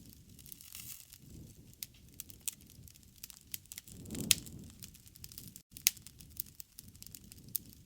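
Campfire burning: wood crackling with scattered sharp pops over a low rumble of flames. The loudest pop comes a little past the middle.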